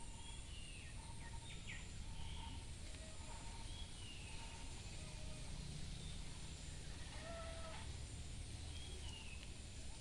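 Birds calling intermittently: short chirps and whistled notes, some sliding down in pitch, scattered through. Underneath runs a steady low rumble of ambient background noise.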